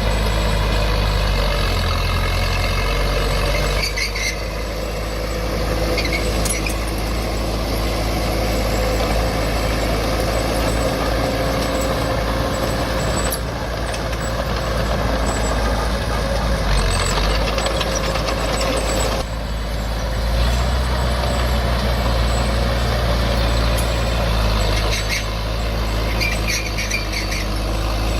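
Heavy diesel engines of earthmoving machines, a bulldozer and a dump truck, running steadily and shifting in engine speed several times. Short high squeaks come a few times.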